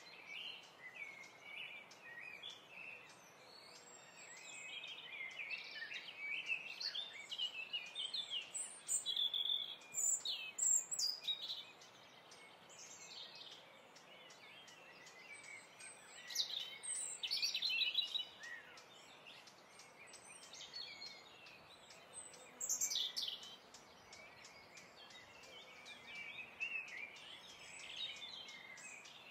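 Birds chirping and singing: short high calls and trills that come in clusters with quieter gaps, over a faint steady hiss.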